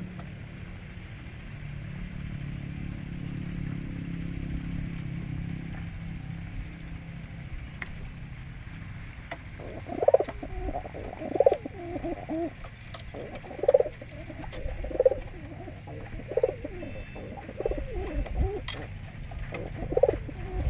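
Domestic pigeon cooing, a rapid string of repeated coos starting about halfway through, over a low steady rumble in the first half.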